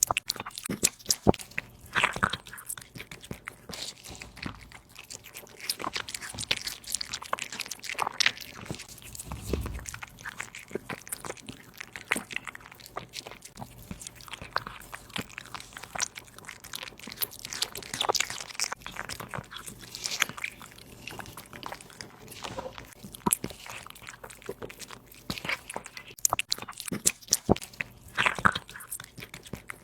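A cat chewing and crunching raw meat and bones, with irregular sharp crunches throughout.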